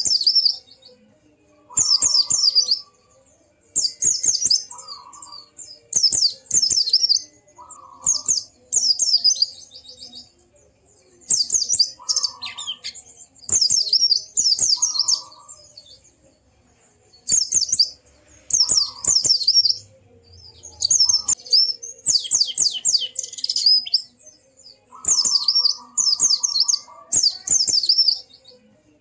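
White-eye (pleci) singing: about a second at a time of rapid, high chirps that fall steeply in pitch, repeated every second or two, with a shorter lower note alongside some phrases.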